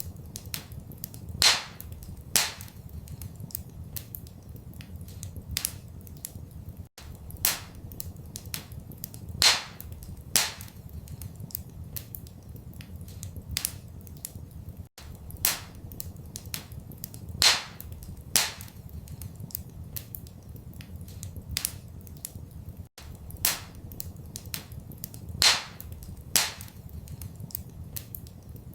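Wood fire crackling in a fireplace: sharp pops and snaps over a low steady rumble. The same pattern of pops recurs about every eight seconds, with two loud pops about a second apart in each round.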